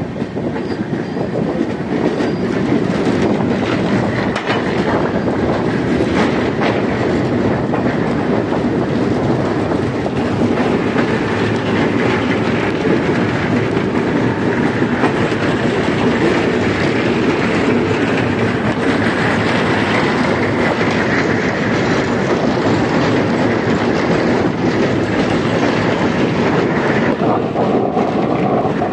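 Indian Railways express train, the 11014 Coimbatore–LTT Mumbai Express, running steadily along the track: a loud, continuous noise of wheels on rails and moving coaches.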